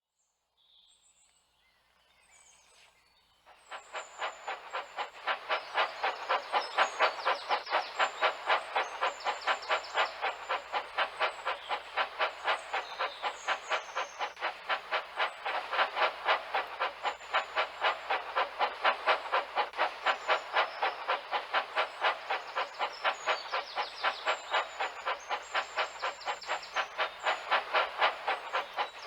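Steam locomotive chuffing at an even, steady rhythm of puffs, starting about three and a half seconds in after near silence.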